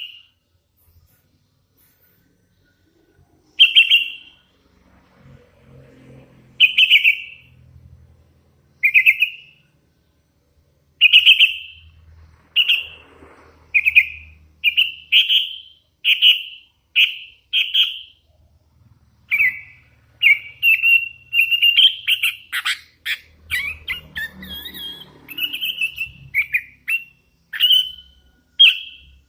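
Young hand-reared sooty-headed bulbul (kutilang) giving short, high chirping calls, a few seconds apart at first, then quicker and almost continuous in the second half.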